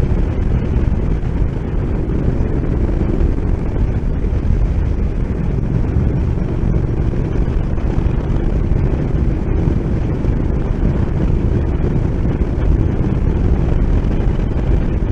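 Motorcycle on the move: a steady, heavy rush of wind noise with the engine running underneath, unbroken.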